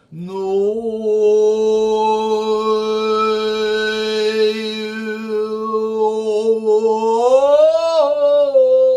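A single long held note starting after a brief silence, steady in pitch and rich in overtones, that swells and slides upward about seven seconds in, then settles back down.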